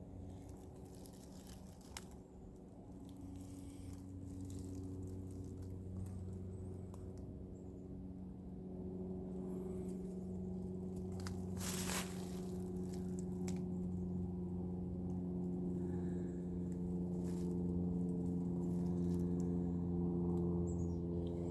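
Engine drone of a plane flying overhead, a steady hum that grows gradually louder. A sharp click about 2 s in and a louder snap about 12 s in.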